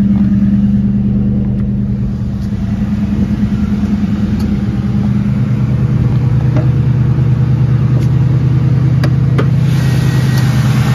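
2004 Ford Mustang GT's 4.6-litre V8 idling steadily just after a cold start. Near the end come a couple of sharp clicks as the hood is unlatched and raised.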